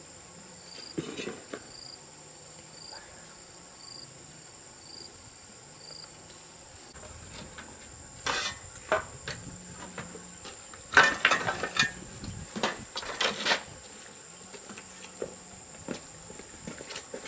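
Insects droning steadily at a high pitch, with a short chirp repeating about once a second in the first half. Over it come bursts of clattering knocks from hard objects being handled, the loudest a run of clatter about eleven to thirteen seconds in.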